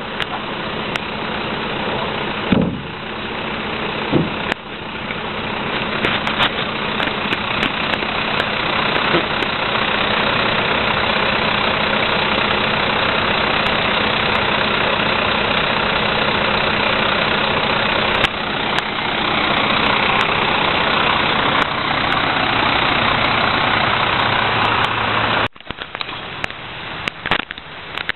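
Heil 5000 rear-loader recycling truck running. About four seconds in it grows louder to a steady higher level, then it cuts off abruptly near the end. A couple of brief knocks come early.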